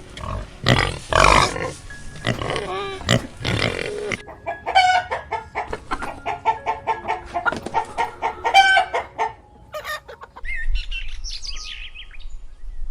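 Chickens clucking in rapid, repeated short calls, with some louder harsh squawks at the start. About ten seconds in it changes to quieter, higher bird chirps.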